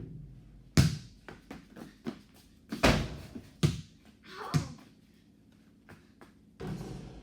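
A ball bouncing: a loud first bounce about a second in, followed by quicker, smaller bounces, then two more sharp hits near the middle.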